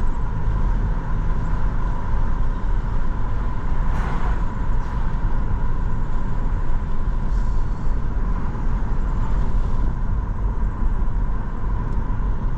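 A car driving at steady speed: constant low engine and tyre rumble, with a brief swell of hiss about four seconds in.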